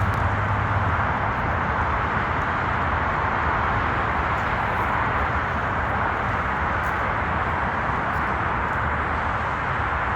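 Steady drone of highway traffic, a constant wash of tyre and engine noise from passing vehicles.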